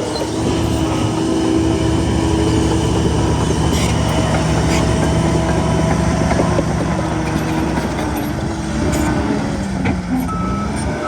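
Shantui bulldozer's diesel engine running steadily under load, with a few metallic clanks. A reversing alarm starts beeping about once a second near the end.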